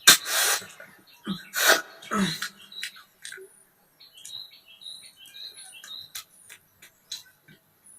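Eating noises of someone eating very spicy noodles and chicken: loud hissing slurps in the first couple of seconds, then many short clicking mouth sounds, with high short chirps repeating in the background.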